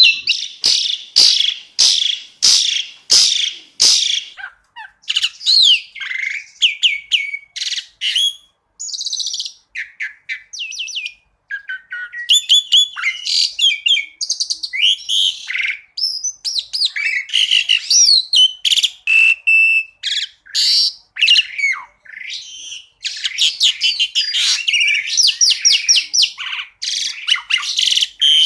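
Asian pied starling (jalak suren) singing loudly and busily. It opens with a run of sharp, rapid chip notes about twice a second for the first four seconds, then switches to a jumble of varied whistles, trills and harsh notes with short gaps.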